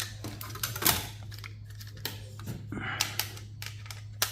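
Small clicks and short scrapes of metal server parts being handled and pulled loose, with a sharper click about a second in, over a steady low hum.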